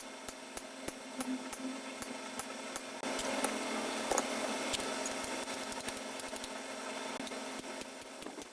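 Irregular sharp metallic clicks and taps from hand tools on gearbox parts, over a steady mechanical hum; the clicking gets busier and louder about three seconds in.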